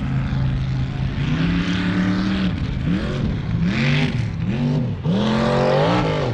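Mud truck engine revving: it runs steady, climbs and holds, then gives a few quick throttle blips and a longer rev near the end.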